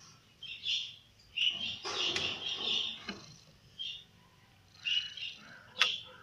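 Small birds chirping in short, repeated high calls, with a louder scuffling rustle about two seconds in and one sharp click near the end.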